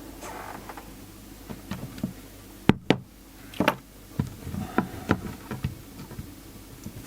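Irregular knocks and clicks of small objects being handled and set down on a workbench, the loudest pair about three seconds in, over a low steady hum.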